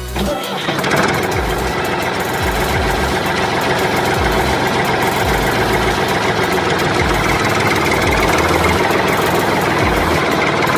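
A small machine motor running loudly and steadily, starting just after the beginning and cutting off at the end, with low thuds recurring beneath it.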